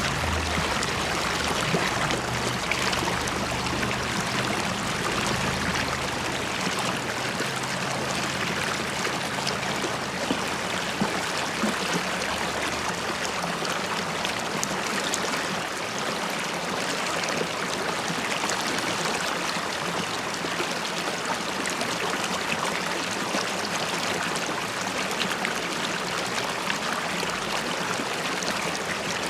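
River water running steadily over stones, with a constant rushing and bubbling.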